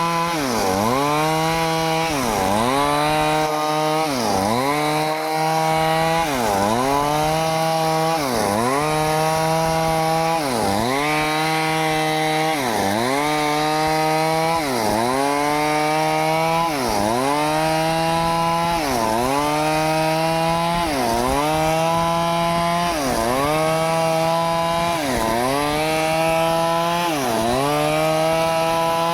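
Stihl two-stroke chainsaw running at high revs, its engine speed dipping sharply and recovering about every two seconds in an even rhythm.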